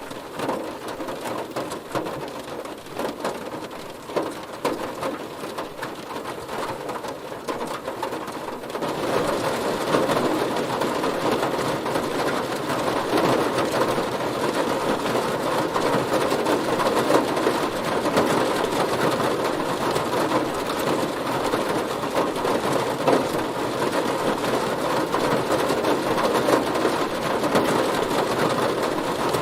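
Heavy rain drumming on a car body, a dense patter of drops that grows louder about nine seconds in and then holds steady.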